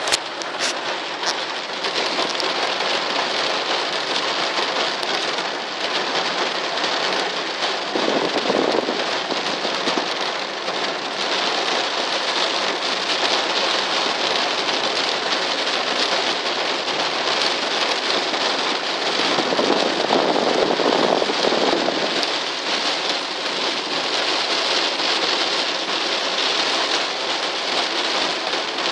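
Heavy rain falling steadily and pattering on surfaces, with many small drop splashes. Twice, about eight seconds in and again around twenty seconds in, a lower, louder swell rises over the rain for a second or two and fades.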